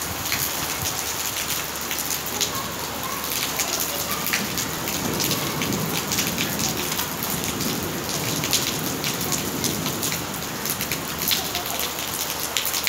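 Steady rain falling: a dense patter with many sharp individual drop hits.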